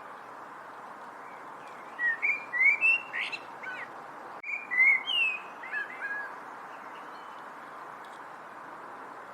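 A songbird singing two short phrases of quick, slurred whistled notes, the first about two seconds in and the second just after, over a steady background hiss.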